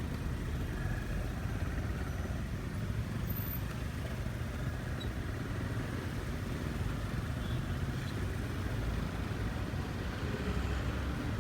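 Motorcycle engine and road noise, an even, unbroken rumble with no change in pace.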